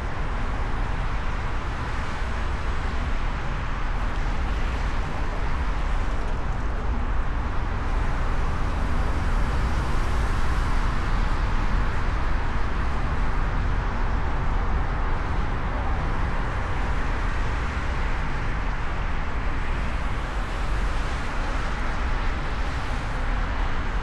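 Steady road noise from a car driving along city streets: a constant low rumble with tyre and wind hiss and the hum of surrounding traffic.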